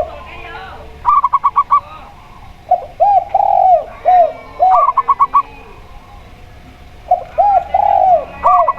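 Zebra dove and spotted dove calling in turns: groups of arched, mid-pitched coos, each answered by a quick run of five or six short, higher notes. The exchange repeats about every three and a half seconds.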